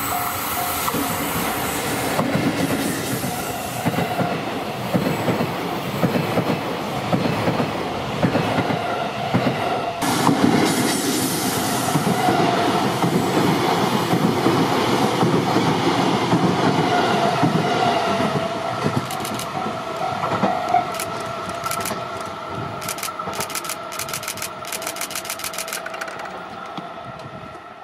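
A train passing close by: an EF65 electric locomotive hauling new Tsukuba Express 3000 series cars, which roll on their own wheels as unpowered freight. It makes a steady rumble with the clickety-clack of wheels over rail joints, and from about two-thirds of the way through the joint clacks come as sharp clusters of clicks. Near the very end the sound quickly falls away.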